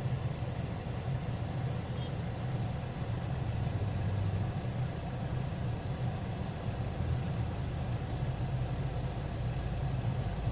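Diesel engine of an Ashok Leyland 3118 twin-steer truck running steadily, with no revving up or down.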